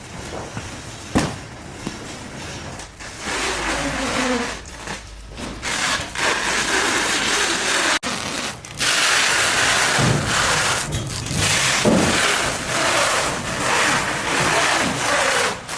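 Repeated scraping and rubbing in long strokes separated by short breaks, with a sharp knock about a second in.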